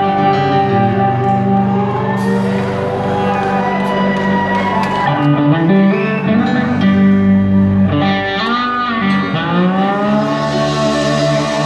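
Rock band playing live, led by electric guitar with long notes that bend up and down over a steady chord.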